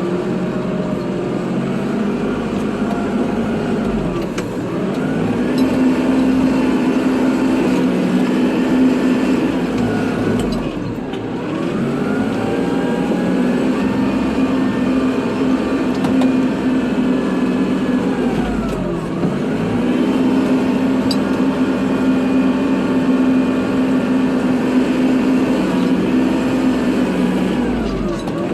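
Kubota tractor's diesel engine running while plowing snow. Its pitch drops and climbs back about three times: about ten seconds in, near twenty seconds, and at the very end.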